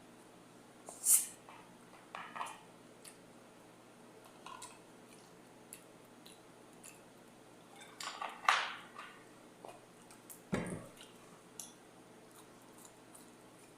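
Close-up eating sounds: scattered bites and wet chewing noises, the loudest about a second in and around eight and a half seconds in, with a brief low thump about ten and a half seconds in.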